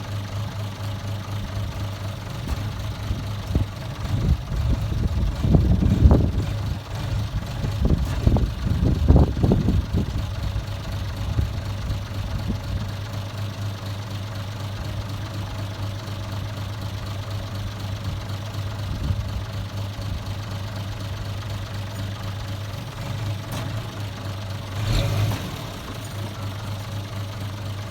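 A vehicle engine idling steadily with an even low hum. About four to ten seconds in it swells into louder, uneven rumbles, and there is a single thump a few seconds before the end.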